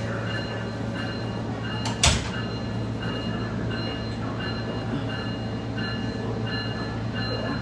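SMART commuter train heard from on board at a station stop: a steady low hum with a high electronic beep repeating on and off. A single sharp clunk comes about two seconds in.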